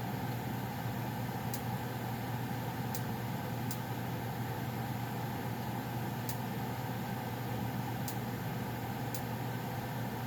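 2011 Goodman 3-ton gas furnace running, with a steady hum from its blower and burner and a few faint, sharp ticks at uneven intervals.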